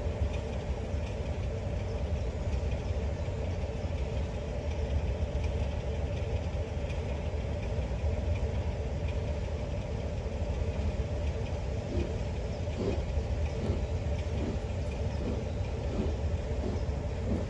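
Heritage railway train running with a steady low rumble. In the last few seconds a regular beat, a little more than one a second, comes in over it.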